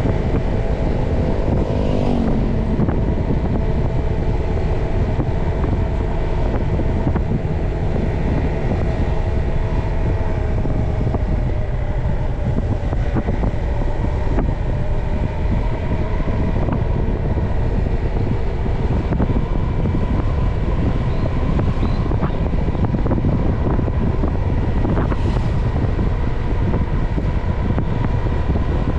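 Motorcycle engine running while riding, under heavy wind buffeting on the microphone; the engine note drops about two seconds in.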